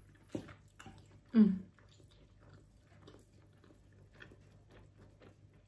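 Close-miked chewing of a soft steamed meat dumpling: faint mouth clicks throughout, with one short hummed 'mm' that falls in pitch about a second and a half in.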